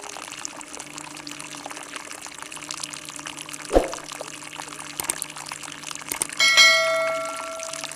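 Water pouring in a steady rush, likely from the newly drilled borewell. A dull thump comes near the middle, and near the end a metallic clang rings for about a second.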